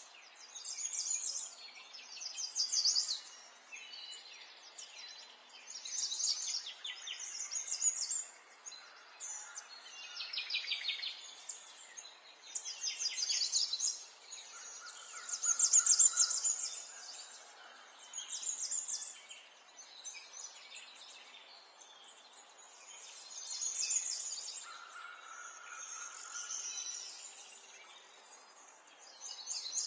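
Several songbirds singing in a chorus: fast trilled phrases of rapid high notes, one after another every second or two, with a couple of lower held whistles, over a faint steady background hiss.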